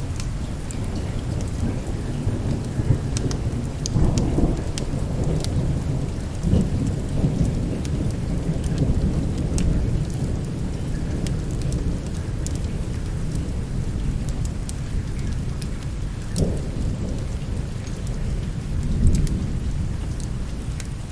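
Steady rain with low, rolling thunder rumbling throughout, swelling louder about four seconds in and again near the end, with scattered sharp crackles over it.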